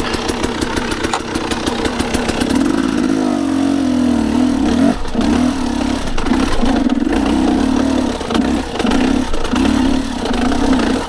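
Dirt bike engine idling, then revved in repeated short bursts about once a second from about three seconds in, as the bike is worked to get unstuck on a slippery climb.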